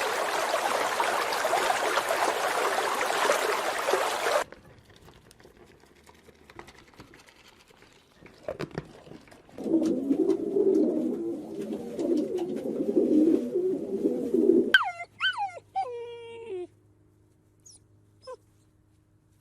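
A dog whimpering: several short, high cries that fall steeply in pitch, near the end. They follow a loud stretch of even noise at the start and a quieter stretch of clicks and low, muffled noise.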